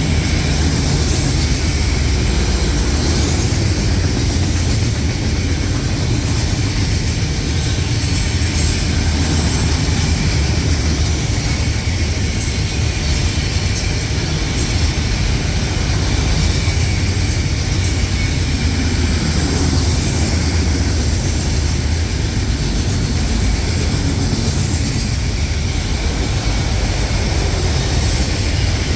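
Freight train of autorack cars rolling past: a steady rumble of wheels on the rails.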